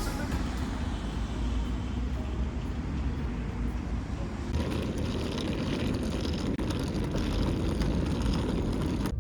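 Steady rumble and hiss of a moving passenger train heard from inside the carriage, growing louder about halfway through.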